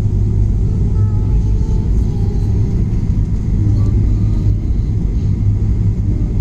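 Airliner cabin noise: the steady low rumble of the jet in flight, heard from inside the passenger cabin.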